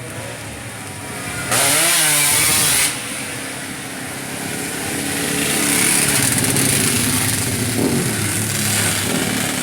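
Motorcycle engines running and revving, the pitch rising and falling; about one and a half seconds in a much louder, harsher engine sound lasts just over a second, and the engine noise swells again in the second half.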